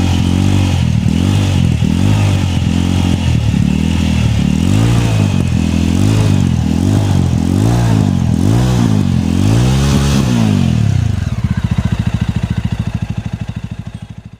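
Jawa motorcycle's 293 cc single-cylinder engine being revved over and over, its pitch rising and falling about once a second. About three seconds before the end it drops back to a steady idle that fades out.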